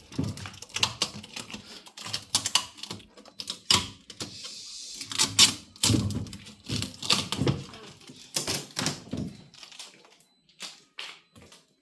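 Irregular clatter of quick clicks and knocks with rustling and a short tearing hiss, as the packaging is pulled off a new four-door fridge. It thins to a few scattered clicks near the end.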